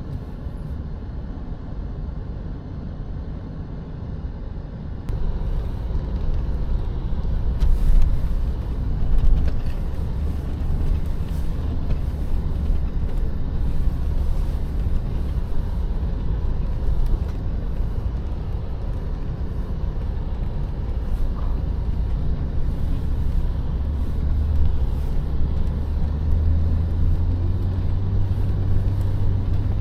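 Off-road 4x4's engine and drivetrain running with a steady low rumble, heard from inside the cab while driving in snow. It gets louder about five seconds in.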